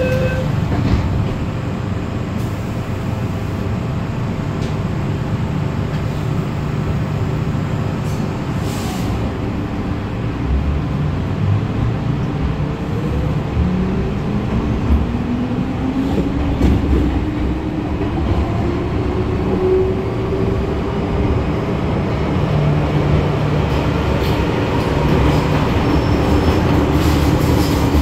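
MTR M-Train electric multiple unit pulling away from a station: its traction motors give a whine that rises steadily in pitch as the train gathers speed, over the rumble of the car running on the track.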